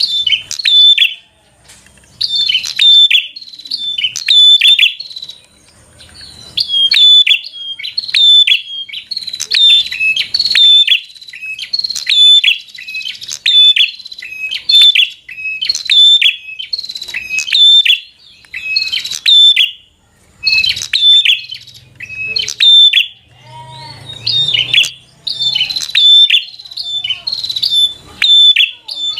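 A prinia (prenjak) singing a rapid, loud 'fighter' song: phrases of sharp, high chirping notes repeated again and again with only brief pauses. This is the aggressive rival-challenging call used to provoke other prinias.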